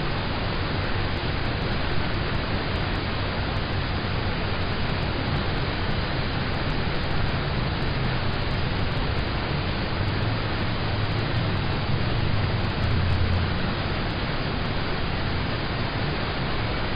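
Rain falling on a car, heard from inside the cabin: a steady, even hiss with a deeper low rumble that swells and eases slightly.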